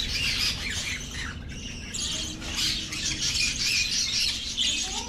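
Many parrots squawking together, high-pitched calls overlapping without a break.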